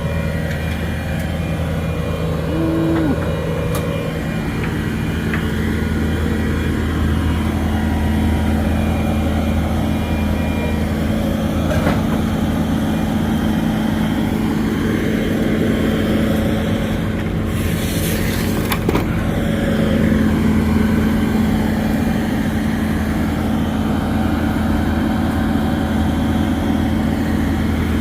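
Diesel engine running steadily at idle, with a short hiss about two-thirds of the way through.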